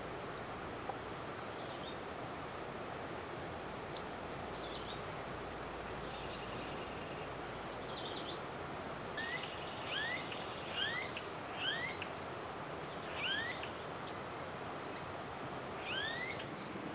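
Wild bird calling: a series of about six short, upward-sweeping chirps from about nine seconds in, with a few fainter high notes before them, over a steady background hiss.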